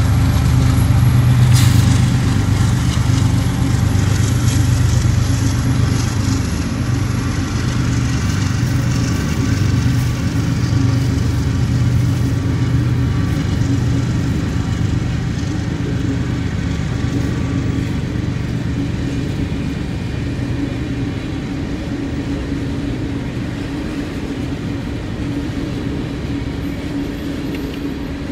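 Kansas City Southern freight train rolling past, with a steady low diesel engine drone and wheel clatter on the rails, slowly fading.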